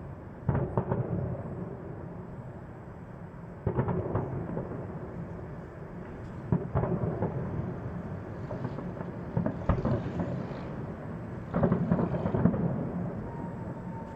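Fireworks salute: a series of deep booms, one every two to three seconds, each trailing off in a long rolling rumble like thunder, with some crackling.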